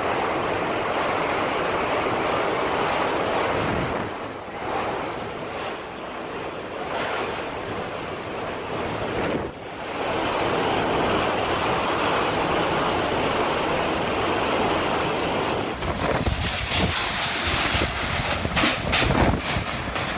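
Steady rushing noise of rough water, dipping briefly twice. Over the last few seconds it turns gusty, with wind buffeting the microphone.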